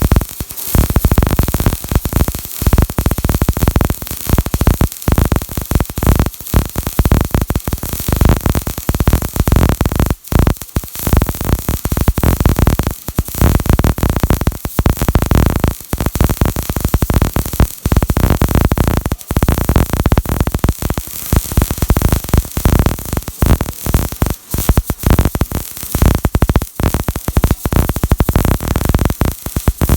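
Electric arc welding: a dense, irregular crackle and hiss from the welding arc, with many brief breaks where the arc cuts out.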